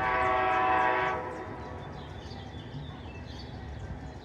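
Locomotive air horn sounding one short blast that cuts off about a second in, followed by the steady rumble of the train on the rails.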